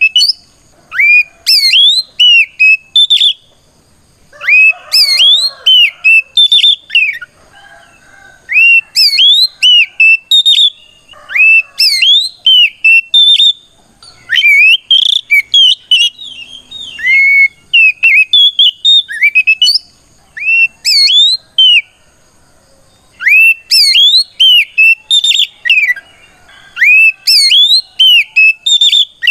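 Oriental magpie-robin (kacer) singing loud, clear whistled phrases of rising and falling notes, in bursts of a second or two with short pauses between. It is a full-voiced fighting song that calls out a rival.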